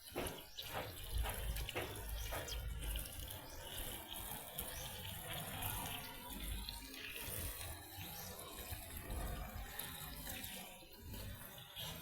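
Water running and splashing, as when washing up in a sink or basin, with a few light knocks in the first couple of seconds.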